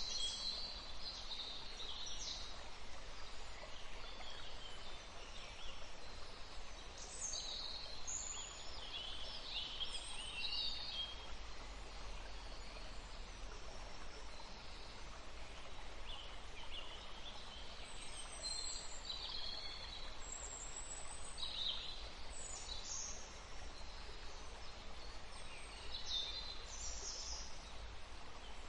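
Forest ambience: small birds chirping and singing in short, scattered phrases over a steady background hiss.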